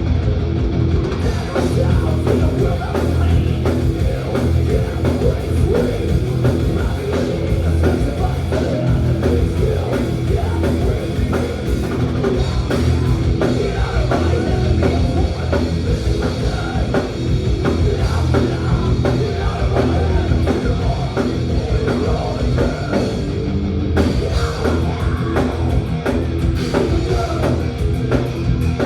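A thrash metal band playing live at full volume: distorted electric guitars, bass and a driving drum kit in one dense, continuous wall of sound.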